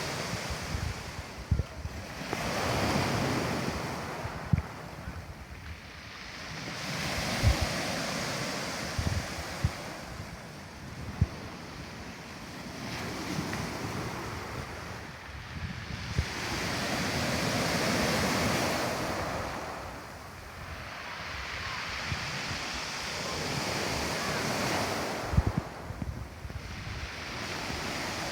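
Sea waves breaking and washing up the shore, swelling and fading about every five seconds, with gusts of wind thumping on the microphone.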